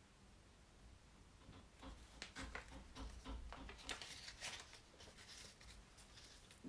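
Near silence, with faint irregular scratching and rustling strokes starting about two seconds in.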